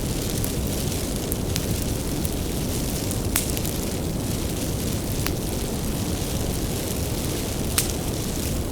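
Wood fire burning with a steady low rumble, broken by sharp crackles and pops every second or so, the loudest pops about three and a half seconds in and near the end.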